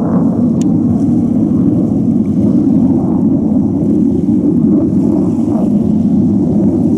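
Steady low rumble of a formation of military jet aircraft passing over, a continuous deep roar with no distinct pitch.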